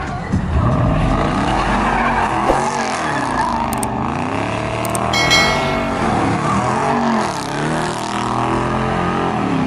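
Car engine revving, its pitch swinging up and down over and over, with tires squealing and skidding on pavement. A few brief sharp clicks sound around the middle.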